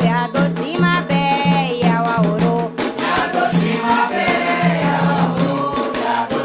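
A group singing an Afro-Brazilian religious chant in Yoruba over a steady beat of low-pitched drums, with rattle-like percussion.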